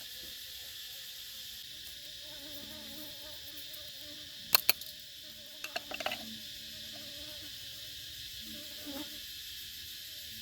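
Steady high-pitched buzzing of insects in the forest, with a few sharp clicks or knocks about four and a half and six seconds in.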